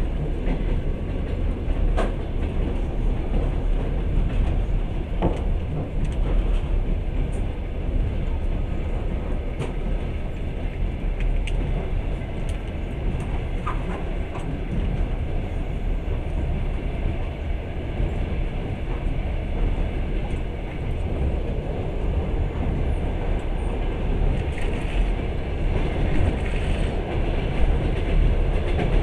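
Passenger train running along the rails, heard from on board: a steady low rumble of wheels on track with a few faint sharp clicks.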